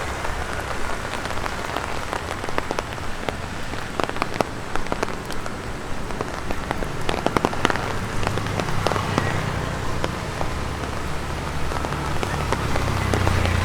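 Rain pattering on an umbrella overhead: a steady hiss of rain with sharp tap-tap hits of drops, bunched about four and seven seconds in. A low rumble builds in the second half.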